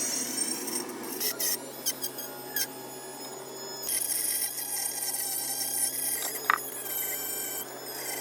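High-pitched whine of a small electric rotary tool running at speed on the steel of an axe head, its pitch wavering slightly under load, with a few brief sharp clicks.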